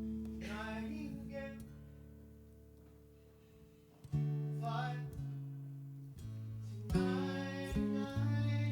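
Instrumental break in a song: acoustic guitar playing chords over low bass notes. A chord rings out and fades over the first few seconds, then fresh strummed chords come in sharply about four seconds in and again near seven seconds.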